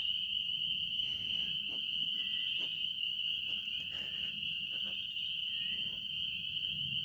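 Chorus of spring peepers: many small frogs peeping together in a dense, steady, high-pitched chorus.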